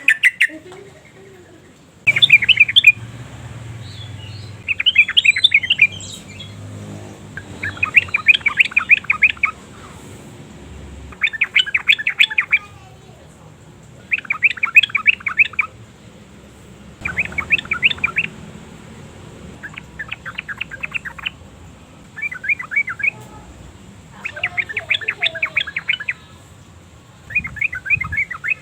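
Yellow-vented bulbul calling: about ten bursts of rapid chattering notes, each about a second long, repeated every two to three seconds.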